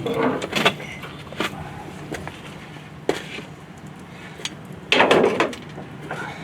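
Metal knocks and clunks of a skid steer hydraulic cylinder's gland and piston rod being worked loose and pulled from the barrel, with a louder, longer clunk near the end.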